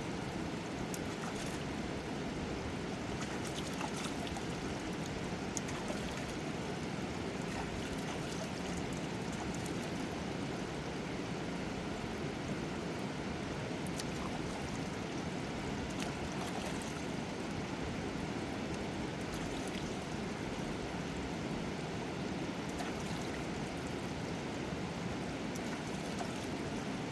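Fast-flowing river water rushing steadily, with a few faint clicks over it.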